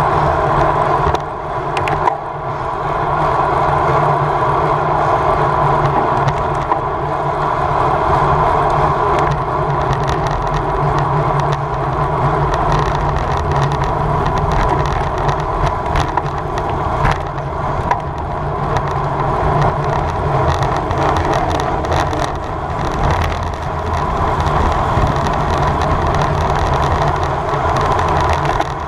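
Steady rush of wind and road noise from a road bike ridden at race speed, with no breaks.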